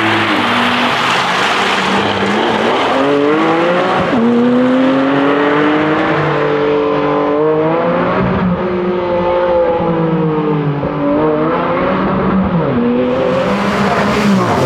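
2021 Porsche Cayman GT4's 4.0-litre flat-six engine driven hard, its note climbing with the revs and dropping sharply at gear changes, the clearest about four seconds in, then falling away and rising again near the end.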